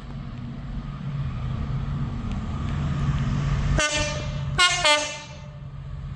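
Train approaching with a low rumble that grows louder, sounding its horn about four seconds in: one short toot, then two quicker toots close together. A warning to the platform from a train running through without stopping.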